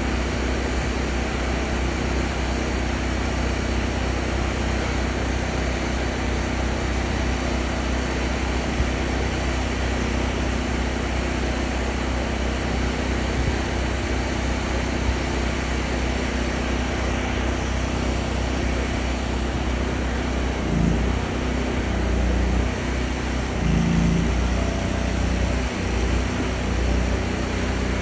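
Truck engine running steadily, with a couple of brief shifts in its low hum about three quarters of the way through.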